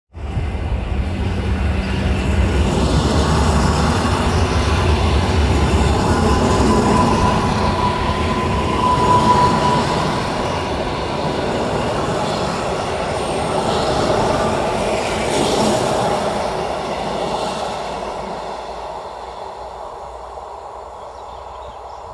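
Train running through a station with a steady rumble of wheels on rails. A thin, high wheel squeal comes in around the middle, and the train fades away near the end.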